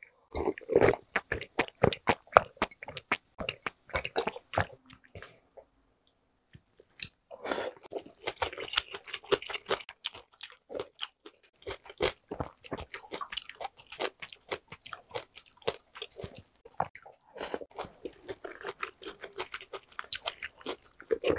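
Close-miked mukbang eating sounds: a few gulps of water in the first second, then wet chewing and biting with many small mouth clicks, as chewy jjolmyeon noodles, soft tofu and kimchi are eaten. After about five seconds the chewing stops for about two seconds, then resumes steadily.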